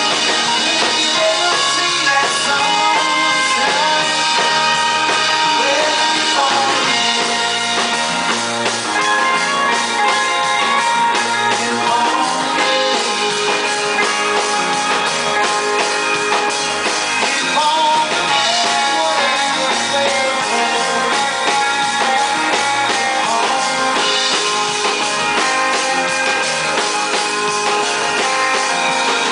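Rock band playing live, an instrumental break with electric guitar and drum kit.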